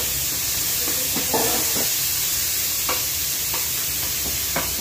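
Chicken wings sizzling steadily in hot oil in a non-stick pan, with a few scrapes and knocks of a wooden spatula against the pan as they are stirred.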